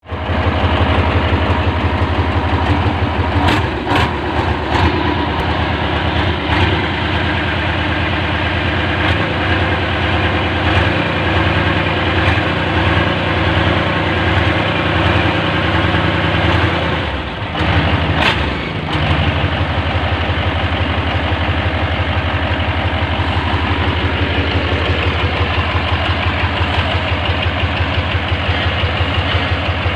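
Hino F21 diesel engine running steadily and loud, described as too loud. A few sharp clicks sound around four seconds in, and the running briefly dips and falters around seventeen to nineteen seconds before settling back to a steady beat.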